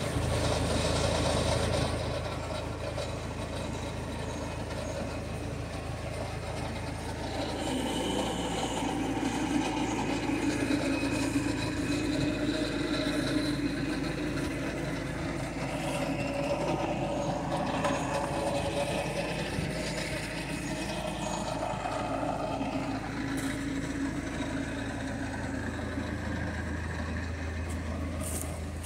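Bobcat skid-steer loader's engine running under load, its pitch rising and falling as it works.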